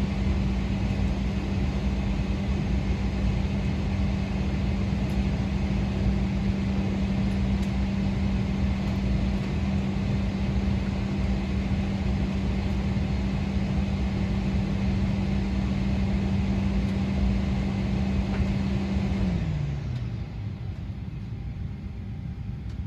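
Airliner cabin air-conditioning hum: a steady drone over a rushing hiss. About nineteen seconds in, the drone winds down in pitch and fades, and the cabin goes quieter.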